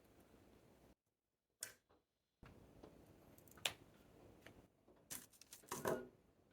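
Quiet handling sounds of potting up succulents: a few sharp taps and clicks, then a short rustle near the end.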